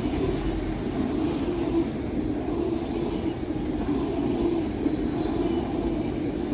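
CSX freight train of empty autorack cars rolling past steadily.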